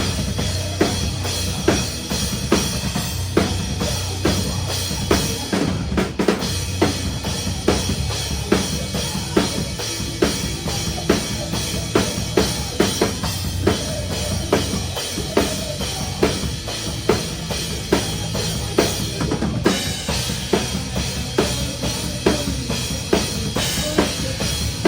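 Metalcore drum kit played live with the band, heard close up from the drummer's seat: a steady run of sharp snare hits over a dense, pounding bass drum and the band's low-end wall of sound.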